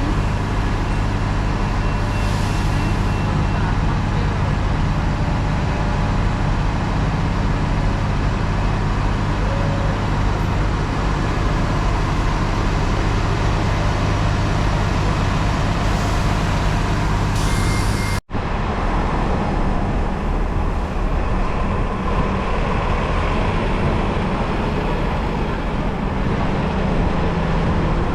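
Steady low drone of a running vehicle engine with road noise. It drops out for an instant about 18 seconds in, then carries on.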